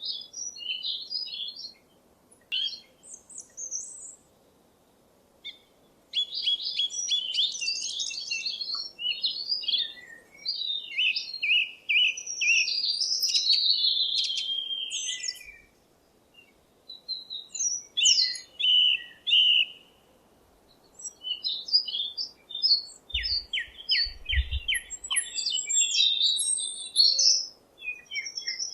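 Songbirds singing: bursts of chirps, trills and rapid notes in phrases of a few seconds, with short pauses between, over a faint steady background hiss.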